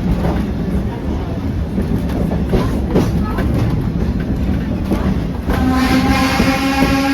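Rumble and clatter of a train ride, with knocks and creaks from the cars. About five and a half seconds in, the steam whistle of the Shay geared locomotive starts a long blast that is still sounding at the end.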